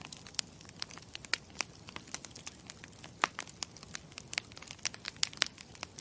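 Campfire crackling: irregular sharp pops and snaps, several a second, over a soft steady hiss, cutting in abruptly at the start.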